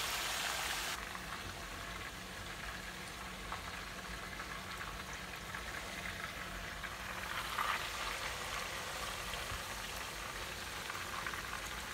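Seasoned chicken pieces frying in hot oil in an electric skillet: steady sizzling, louder for the first second.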